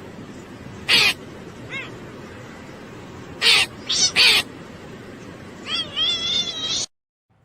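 Cat meowing in answer to a sung prompt: short, sharp meows, one about a second in and three close together a few seconds later, then a longer wavering sound before the audio cuts off abruptly.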